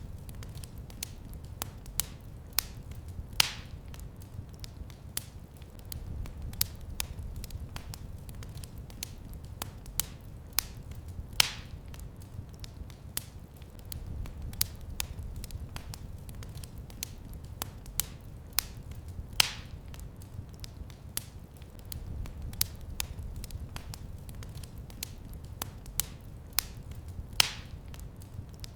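Wood fire in a fireplace crackling, with a steady low rumble of the flames under frequent small pops and a louder snap about every eight seconds.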